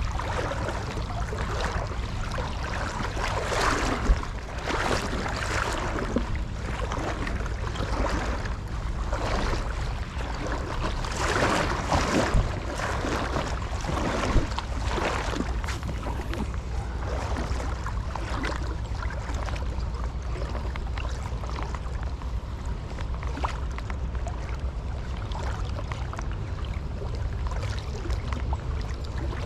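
Creek water rushing, with a steady low wind rumble on the microphone; the rushing swells in patches during the first half. Two short sharp knocks stand out, one about four seconds in and one near the middle.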